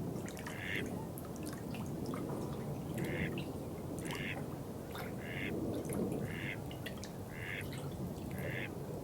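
Running water with scattered drips, and a short call repeated about once a second over it.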